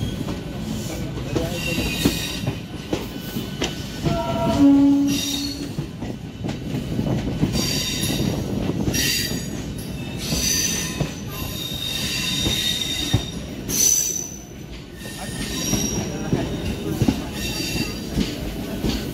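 Passenger train running, heard from a coach window: a steady rumble with repeated high-pitched squealing of wheels on the rails, and a short pitched tone about four and a half seconds in.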